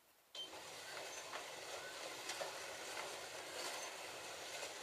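Several slot cars setting off together and running on a plastic slot-car track: a steady whirring rattle of small electric motors and wheels that starts suddenly about a third of a second in, with a few light clicks.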